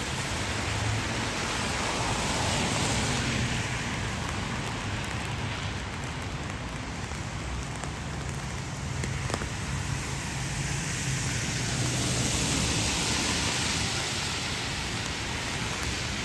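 Steady rain falling on city pavement, an even hiss that swells and fades a few times, with a low rumble underneath.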